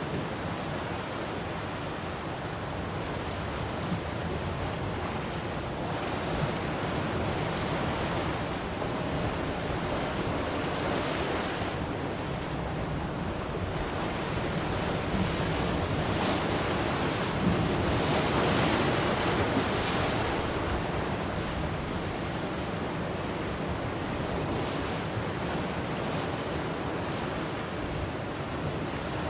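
Ocean waves breaking and washing onto the shore in a steady surf that swells and eases, loudest about two thirds of the way through, with some wind on the microphone.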